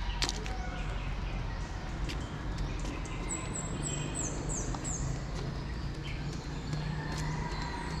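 A bird calling a quick run of about five high notes, each falling in pitch, a few seconds in, over light footsteps and a steady low outdoor background hum.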